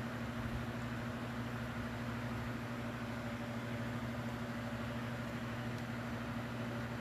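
Steady low hum of room background noise with a constant low-pitched drone, as from a running appliance such as a fan or air conditioner.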